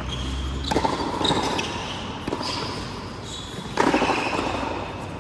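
A doubles rally on an indoor court: sharp racket strikes with sneakers squeaking on the floor, the loudest hit about four seconds in.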